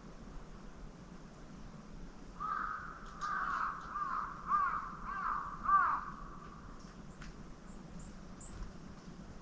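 A crow cawing, a run of about six caws over three or four seconds. A few faint, high, short bird notes follow near the end.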